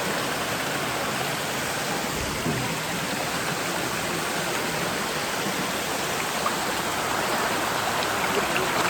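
Steady rushing of water in a mountain stream, growing a little louder near the end, with a brief low thump about two seconds in.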